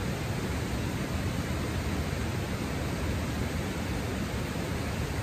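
Steady rushing of river water flowing past, an even unbroken noise.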